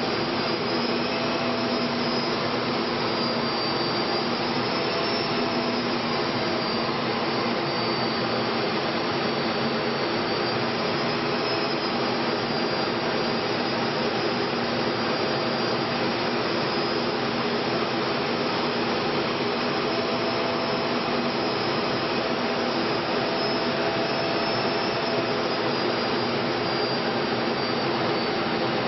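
Steady jet aircraft engine noise: an even rushing roar with a few faint steady tones inside it. It holds level throughout, with no build-up or fade.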